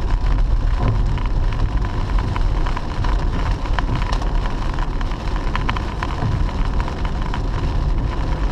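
Inside a moving car in a heavy storm: steady road and engine rumble, with rain striking the windshield and roof as many small ticks.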